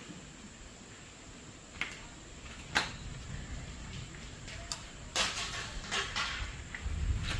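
A few sharp clicks and knocks, two spaced apart in the first three seconds and a quick cluster of them about five to six seconds in, over a low rumble that grows near the end.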